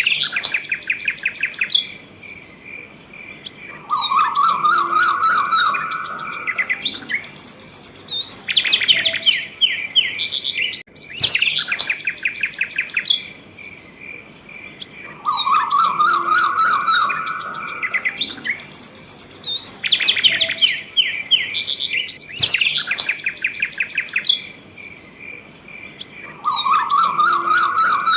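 Several birds singing and chirping at once, with quick trills, rising sweeps and rapid high chirp series over a fast, even pulsing chirp. The same sequence of songs repeats about every eleven seconds.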